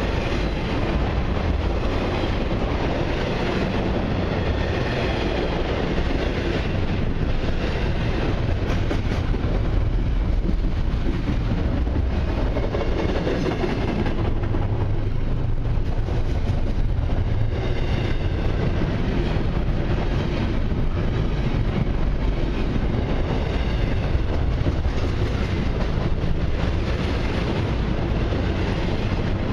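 Cars of a long intermodal freight train rolling past on steel wheels, a steady rumble and rail noise with faint high ringing coming and going.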